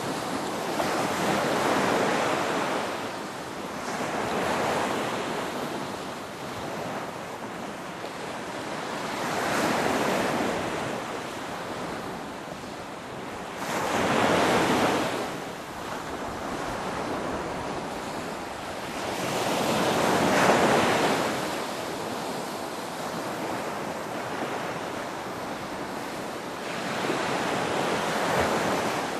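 Ocean waves breaking and washing up, the surf swelling and fading in surges every few seconds, with the biggest about halfway through and again some twenty seconds in.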